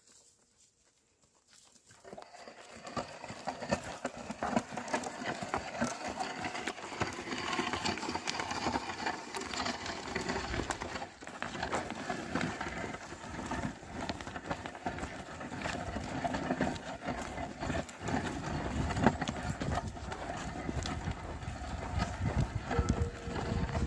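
Plough oxen walking, a dense run of hoof knocks and rustling that starts about two seconds in.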